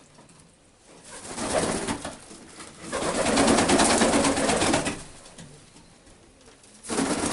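Pigeons cooing in a coop: a short burst about a second in, then a louder stretch of cooing from about three to five seconds.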